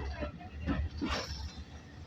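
Steam-hauled passenger train running, heard from aboard: a steady low rumble with a few short noisy bursts about half a second apart.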